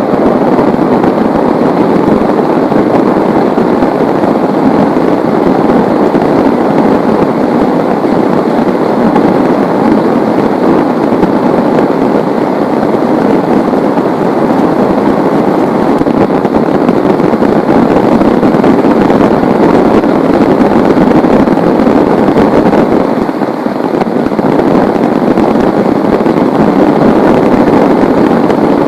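Heavy rain pouring down, a loud, steady, dense hiss, easing slightly for a moment about two-thirds of the way through.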